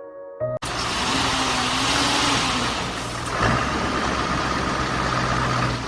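A vehicle engine running steadily under a loud, even rushing noise, after a snatch of background music that cuts off about half a second in.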